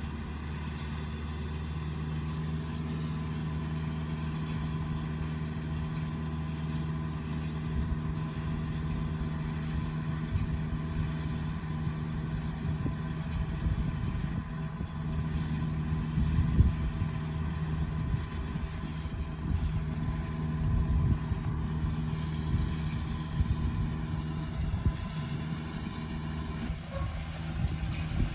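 Farm tractor engine running at a steady speed, with an uneven low rumble joining in after several seconds.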